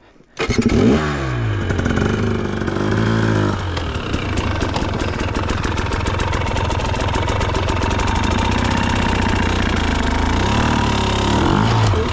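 Dirt bike engine starting about half a second in after a jump start, revved up and down a couple of times, then running steadily, with another rev near the end.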